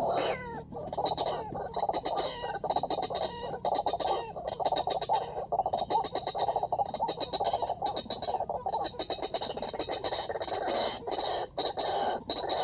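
White-breasted waterhen calling: a continuous run of rapidly repeated notes.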